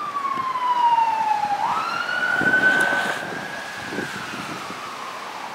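Emergency vehicle siren wailing: its tone slides down, sweeps back up about a second and a half in, holds, then fades toward the end.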